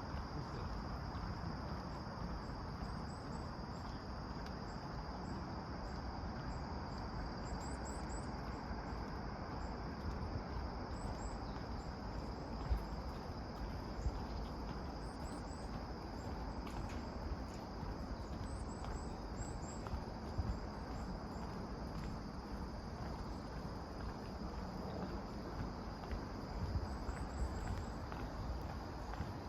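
Insects trilling steadily in the forest, with faint high bird chirps now and then over a low rush of wind.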